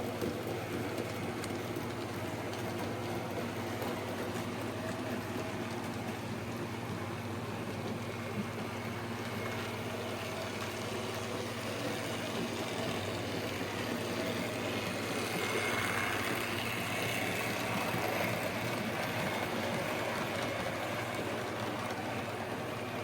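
Model railway locomotive running on the track: a 1977 Hornby King Arthur class with the old Hornby X04 motor, which whirs steadily over the rattle of its wheels on the rails. The sound swells about two-thirds of the way through, then eases off a little.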